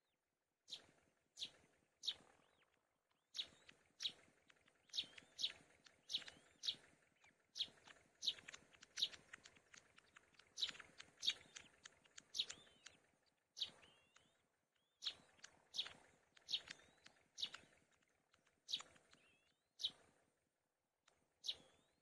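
Repeated short, sharp, high-pitched bird chirps, about one or two a second, with a few short pauses.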